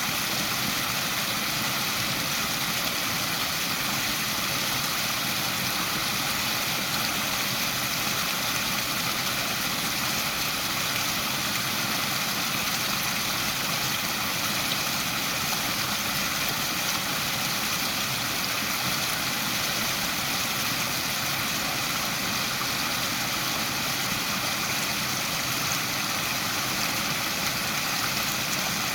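Small waterfall running in a steady, unbroken rush of water.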